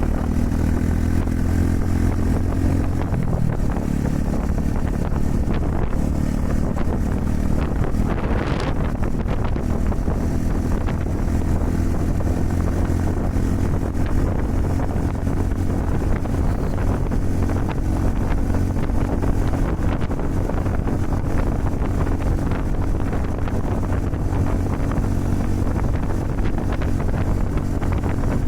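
Honda Super Cub 110's small single-cylinder four-stroke engine running steadily while riding, heavily buffeted by strong wind on the microphone. The engine note shifts about three seconds in, and a brief whoosh rises and falls about eight seconds in.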